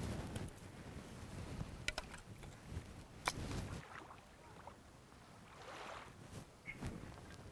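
Waves washing on the shore and wind on the microphone, with two sharp clicks about two and three seconds in.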